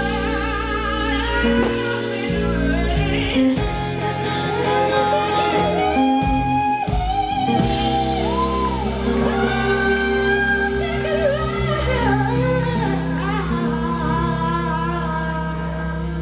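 Live blues-rock band playing: singing over electric guitar, with held bass notes underneath.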